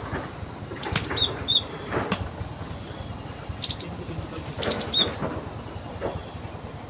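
Cinereous tit calling: short clusters of two to four quick, high, downward-slurred notes, three times, over a steady high insect drone.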